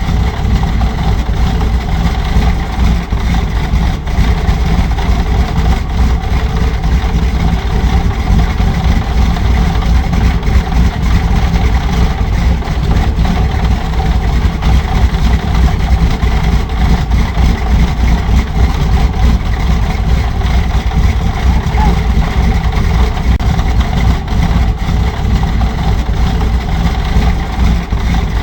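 Sound module in a scale model Halifax bomber playing a Bristol Hercules radial engine idling, steady and unchanging.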